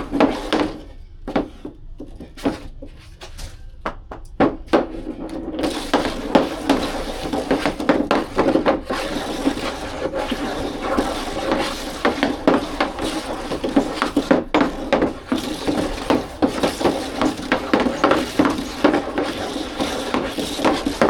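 Hockey stick and ball clattering on a hard floor: many quick, irregular knocks. From about six seconds in, a steady rushing noise runs beneath the knocks.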